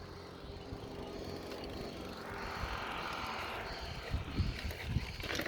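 A vehicle running on a road with a steady low hum and wind noise, swelling about halfway through, with a few knocks near the end.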